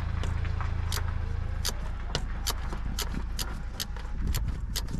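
Engine running with a steady low rumble and a regular clatter of sharp ticks; it sounds like a diesel to the listener on site. The rumble drops off a little under two seconds in while the ticking goes on.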